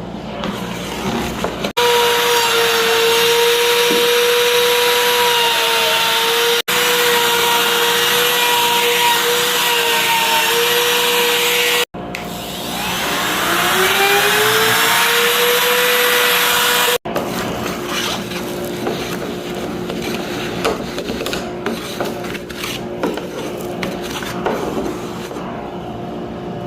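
Electric wood router running at high speed with a steady high whine, routing a recess into wood, broken by several brief drop-outs. About twelve seconds in, the motor spins up from a lower pitch to full speed. In the last third the whine sits lower and the cut sounds rougher and more uneven, with scraping and small knocks.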